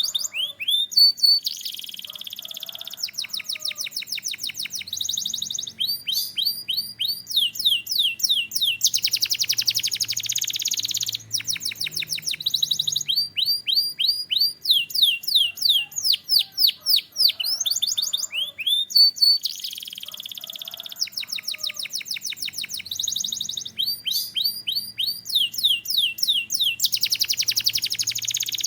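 Canary singing a continuous song of fast repeated notes, changing to a new trill every second or two, with buzzing rolls near the middle and near the end.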